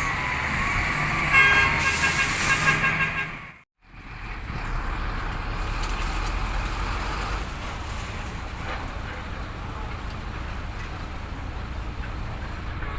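A 10-wheel dump truck's diesel engine is running, and its horn sounds for about a second and a half near the start. The sound drops out briefly at about four seconds. A steady low engine rumble follows.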